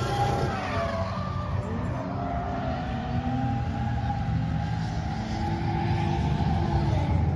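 Car engines revving up and down over a steady low rumble; the pitch falls in the first couple of seconds and climbs again around the middle.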